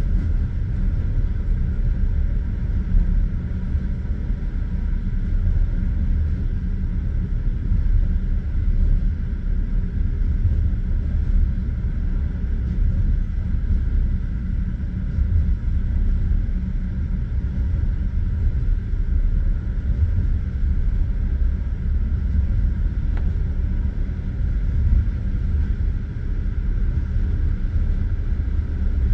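Passenger railway carriage running at speed: a steady low rumble of wheels on the rails, with a couple of slightly louder knocks from the wheels.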